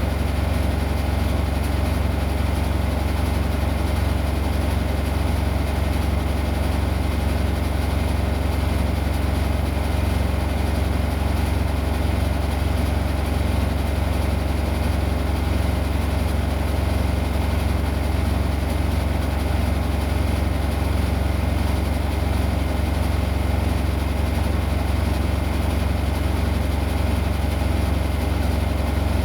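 Washing machine running with a steady low hum and drone that does not change.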